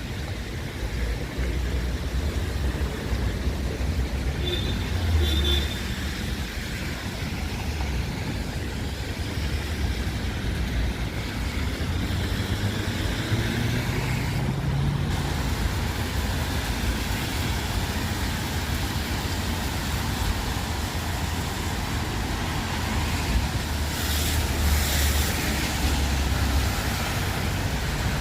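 Road traffic passing on a rain-wet street: a steady low rumble of engines and the hiss of tyres. One engine note rises slightly about halfway through.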